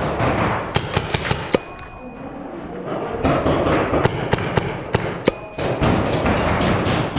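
Paintball markers firing in a scatter of sharp cracks, with paintballs smacking into surfaces, in two flurries. Twice a hit rings briefly like struck metal.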